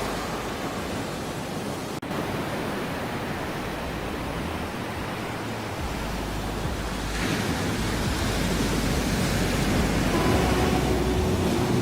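Ocean surf: a steady wash of waves, with a swell building about seven seconds in and a momentary dropout about two seconds in. Faint steady tones come in near the end.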